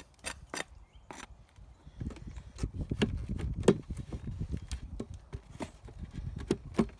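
Wooden beehive frames and boxes being handled: a series of knocks and clicks, busier and heavier with low thumps and rubbing from about two seconds in.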